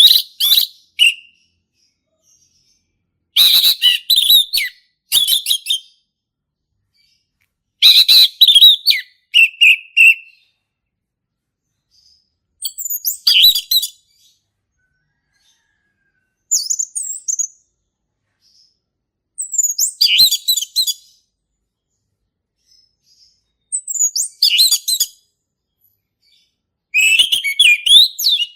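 Male orange-headed thrush singing in full, loud 'ngeplong' song: about eight high-pitched, varied phrases of one to two seconds each, with pauses of a second or two between them.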